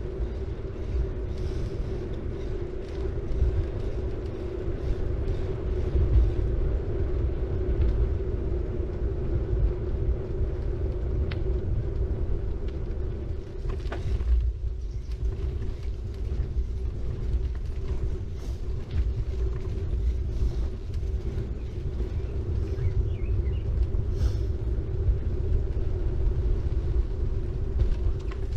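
City bike rolling along the road: a steady low rumble of tyres and ride noise with a constant hum, and small clicks and creaks from the bike.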